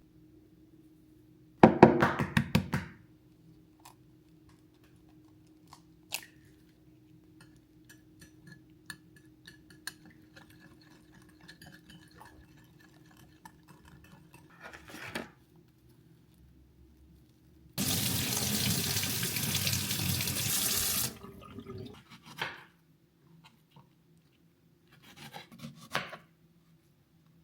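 A tap running into a sink for about three seconds past the middle. About two seconds in there is a short burst of clattering, the loudest sound here, and light knocks and clinks are scattered around it.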